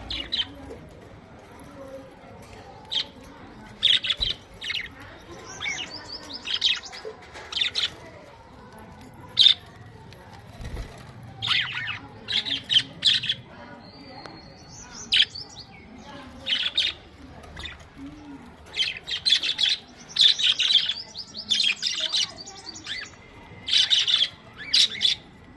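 Budgerigars chirping: many short, high chirps, often in quick runs of several.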